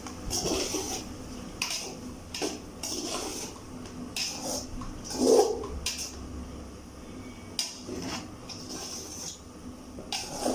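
Metal utensils scraping and clinking against cookware as fried rice is dished out, in irregular short strokes with one louder knock about five seconds in.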